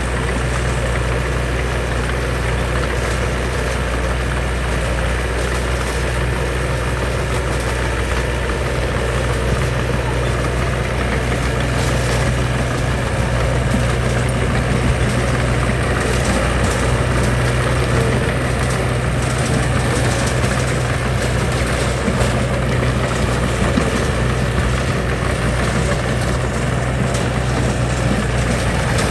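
Heavy diesel engine of earthmoving machinery running steadily, a deep, even drone.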